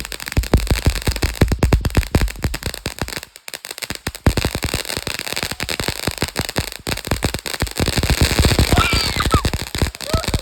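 A rapid, continuous string of firecracker bangs, many sharp cracks a second, with a brief pause about three and a half seconds in before it carries on.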